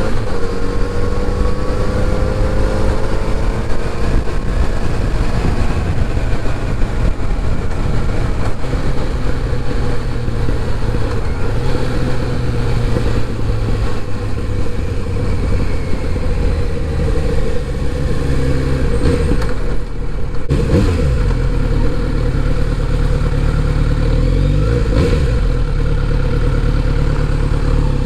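Kawasaki Z900RS inline-four engine heard from the bike while riding, with road and wind noise. The engine note falls in pitch during the first few seconds, breaks briefly about twenty seconds in as if for a gear change, then settles into a steady low drone.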